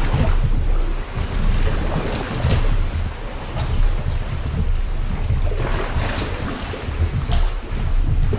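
Seawater surging and sloshing inside a sea cave around a kayak, with a few louder washes, over a low rumble of wind buffeting the microphone.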